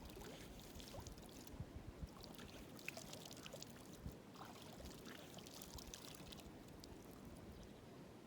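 Faint trickling water, with many small drips and splashes that thin out after about six seconds.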